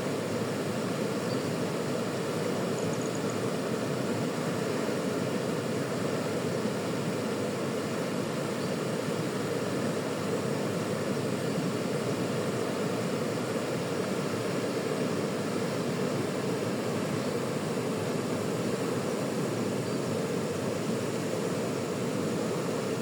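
River water rushing, a steady unbroken rush that is strongest in the low-middle range.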